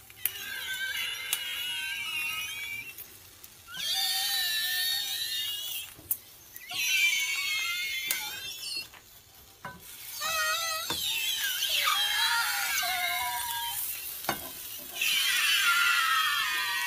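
Small white pieces of food in a hot nonstick frying pan, pushed around with a slotted spatula, giving off high, wavering squeals and shrieks over a frying hiss. The squeals come in bursts of two to four seconds with short gaps between them.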